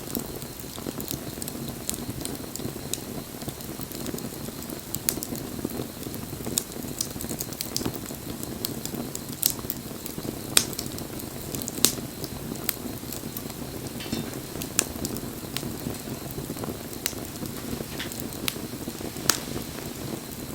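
Wood fire crackling: a steady low rush of burning with scattered sharp pops and snaps, two louder pops about halfway through.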